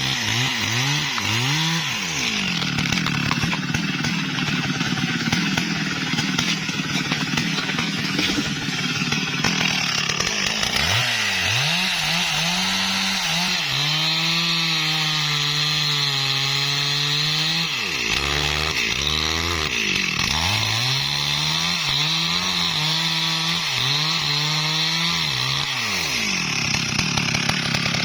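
STIHL MS382 two-stroke chainsaw running hard while cutting wood. Its engine note drops and climbs back several times.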